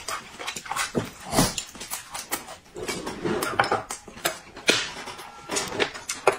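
Dishes and cutlery clinking and knocking in an irregular run of short clicks.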